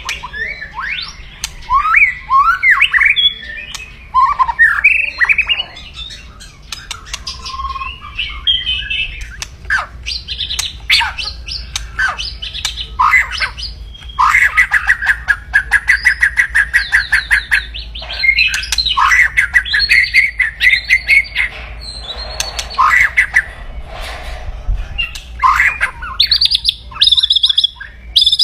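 White-rumped shama (murai batu) singing aggressively, mixing harsh chattering 'kretekan' calls and fast trains of rapidly repeated notes with short whistled phrases and sharp clicks.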